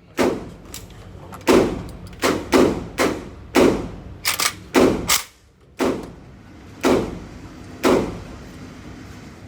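Rapid gunfire at a shooting range: about a dozen sharp shots at uneven intervals, some louder and some fainter as from different lanes, each followed by a short echo.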